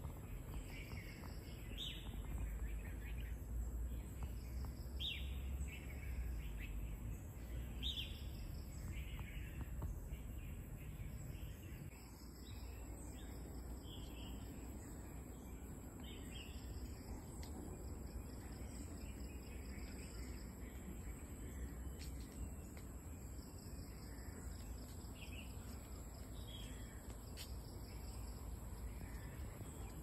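Wild birds calling, one repeating a short downward-sliding call about every three seconds for the first part, with fainter chirps later, over a steady low rumble of outdoor ambience.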